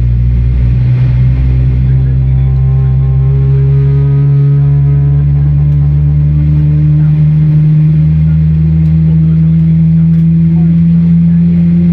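Boeing 777-300ER's GE90-115B turbofan engine spooling up during engine start, heard inside the cabin: a loud, steady hum with several tones rising slowly.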